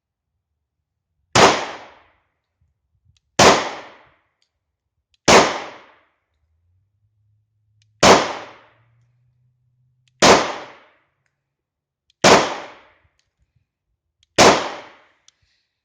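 Seven 9mm pistol shots from a German P.08 Luger, fired slowly and aimed, about two seconds apart with a slightly longer pause after the third. Each shot has a short echoing tail.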